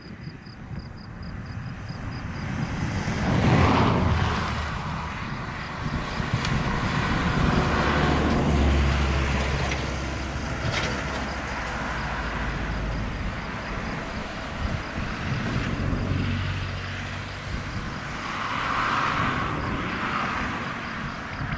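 Airbus C-295's twin turboprop engines at takeoff power, building to a peak about four seconds in as the aircraft passes, then a long low drone that slowly fades, with a brief swell again near the end.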